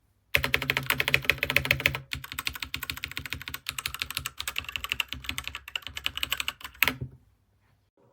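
Fast, continuous typing on a Dierya DK61se 60% mechanical keyboard with red linear switches: a dense run of keystroke clicks that starts just after the beginning and stops about a second before the end.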